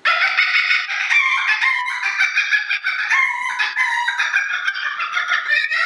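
A man's vocal imitation of a hen cackling as she is about to lay an egg: a long unbroken run of quick, high clucking notes that starts abruptly.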